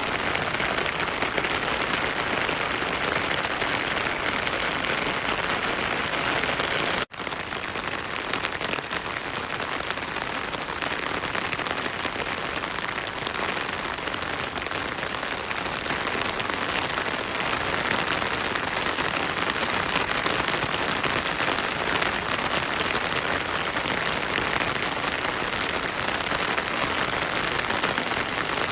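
Heavy rain falling steadily, a dense even hiss of drops, with a momentary dropout about seven seconds in where the sound cuts out for an instant and resumes.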